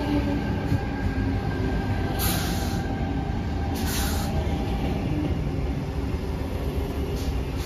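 Sydney Trains double-deck electric suburban train pulling out along the platform: a steady low rumble of carriages and wheels, with two short hissing bursts about two and four seconds in.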